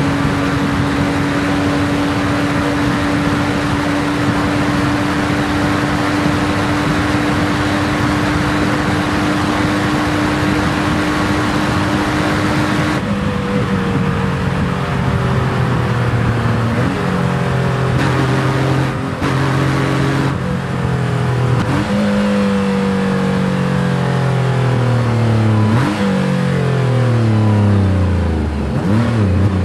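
Porsche 911 flat-six engine at high speed: a steady high note that slowly climbs for about thirteen seconds, then breaks off into revs stepping up and down through gear changes, with quick drops and climbs near the end as it shifts down and picks up again.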